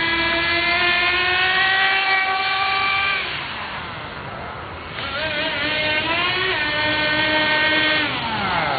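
Small electric motor of a toy monster truck whining as it runs. The pitch climbs slowly for about three seconds, then falls away to a quieter stretch. It comes back higher about five seconds in, wavers and steps down, then glides down near the end.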